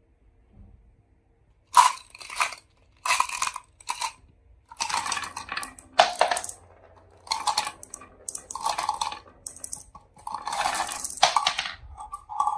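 Marbles rolling and clattering down a marble run, in a string of separate runs of about half a second to a second each that start a couple of seconds in.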